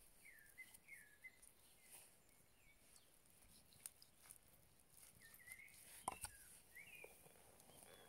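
Faint bird chirps: short slurred notes, several in the first second or so and again near the end. A few faint taps are heard, and a pair of sharper clicks about six seconds in.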